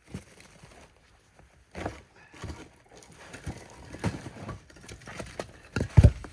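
Frozen firewood being handled and pried apart: irregular crunches and knocks, the loudest knock about six seconds in.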